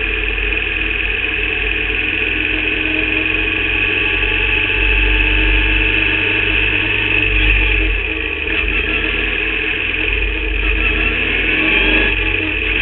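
Formula Vauxhall 8v single-seater's engine running steadily at low revs, its pitch shifting a little about two-thirds of the way through.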